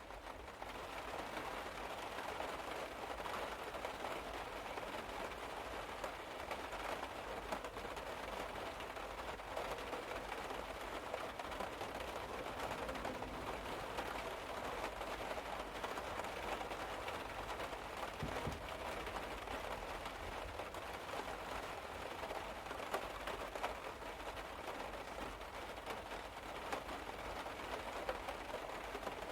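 Steady rain falling on a car's roof, heard from inside the car: a dense patter of many small drop hits.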